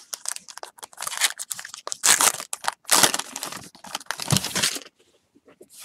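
Irregular crinkling and rustling as baseball cards and their packaging are handled. It stops about five seconds in.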